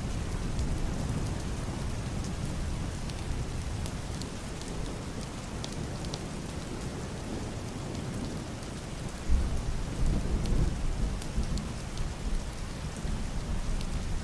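Heavy rain falling on a wooden roof and a glass window, a steady hiss with scattered sharp drop ticks. About two-thirds of the way in, a deep, muffled thunder rumble sets in suddenly and rolls on for several seconds.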